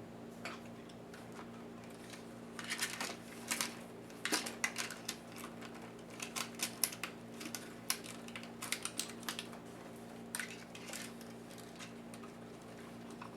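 Irregular small clicks and taps of plastic and metal laptop parts and small tools being handled during disassembly, most of them in the middle, over a steady low electrical hum.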